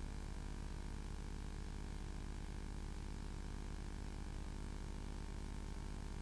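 A steady low electrical hum with a faint hiss over it, unchanging throughout, with no distinct sound events.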